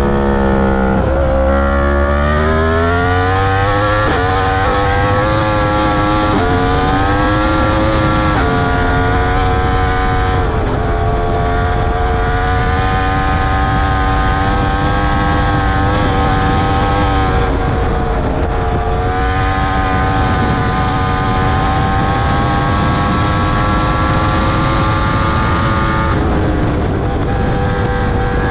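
2021 Yamaha R1's crossplane inline-four running hard through an Akrapovic full titanium exhaust with its dB killer fitted, heard from on board. In the first several seconds the revs climb and drop sharply a few times as it shifts up; after that it holds high, fairly steady revs, then falls away near the end.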